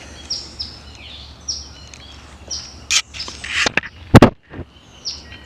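A songbird repeating short chirps that drop quickly in pitch, a few at a time. Several sharp knocks come in the second half, the loudest about four seconds in.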